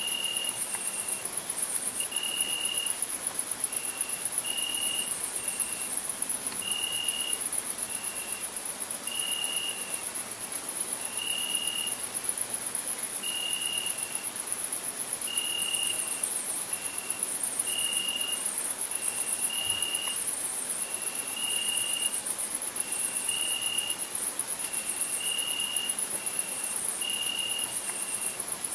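Crickets chirring in a steady, rapidly pulsing high-pitched chorus, with a clear short note repeating about once a second, alternating longer and shorter notes.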